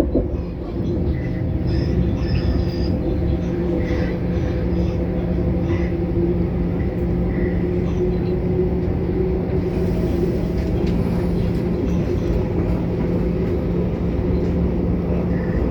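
Passenger train running at speed, heard from inside the carriage: a steady rumble with a constant motor hum and occasional faint rattles.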